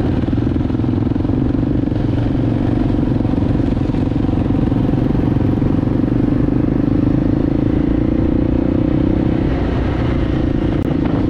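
Enduro motorcycle engine running at a steady speed while riding, a constant drone with no revving up or down.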